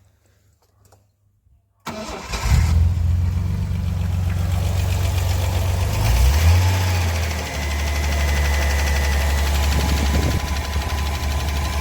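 Ford Cortina 3-litre six-cylinder engine cold-started on a little choke. About two seconds in it fires and catches almost at once, then runs steadily. Around six seconds in it rises briefly, then settles back to a steady idle.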